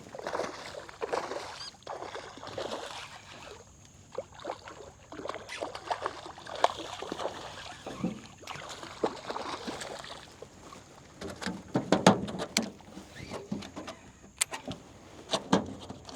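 Irregular knocks, scuffs and light splashes in a small fishing boat as gear and a caught redfish are handled, with a few louder thumps and sharp clicks in the second half.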